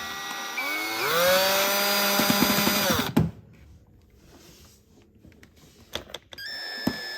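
Power drill driving a small screw into the chainsaw's plastic housing. The motor spins up about a second in, runs steadily for two seconds and stops. It runs again briefly near the end.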